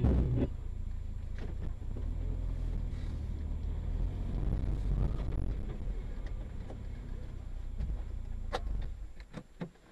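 Steady low rumble of a car driving, with a few faint clicks along the way. The rumble drops away near the end.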